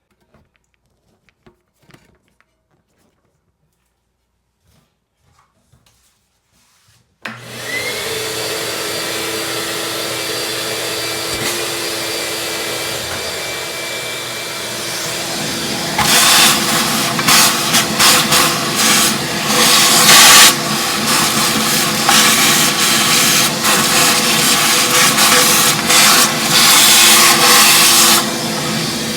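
A few faint handling clicks, then a vacuum cleaner switches on about seven seconds in and runs steadily. From about halfway it gets louder and uneven, crackling and rattling as it sucks up loose crud and debris around the toilet's base, then it settles back to a steady run near the end.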